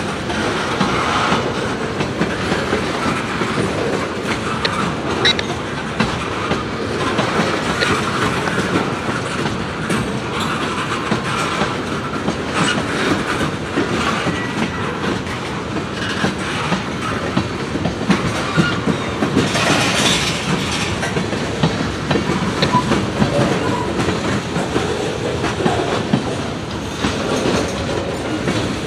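Freight train cars rolling past, with steel wheels clicking over the rail joints in a continuous clatter. About twenty seconds in there is a brief higher-pitched hiss or squeal.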